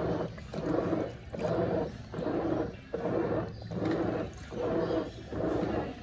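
Brastemp Eggo 1 kg mini washing machine agitating a wash load, its motor whirring in short, even pulses, about four every three seconds.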